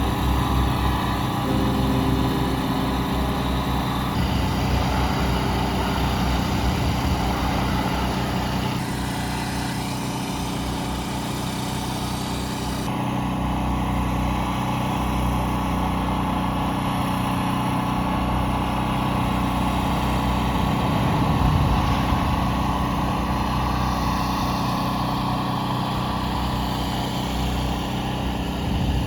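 Motor vehicle engine running steadily with road and wind noise, changing abruptly a few times between clips.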